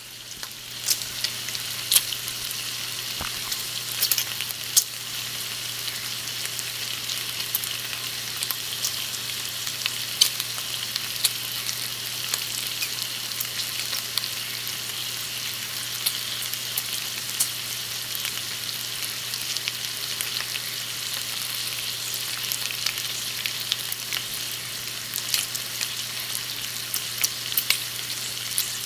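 Bacon frying in a pan: a steady sizzle with frequent sharp pops and crackles of spattering fat.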